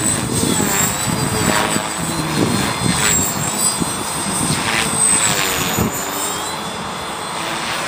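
Align T-Rex 450 Pro electric RC helicopter in flight: the high whine of its brushless motor and rotor blades wavers up and down in pitch as the pilot works it through the wind.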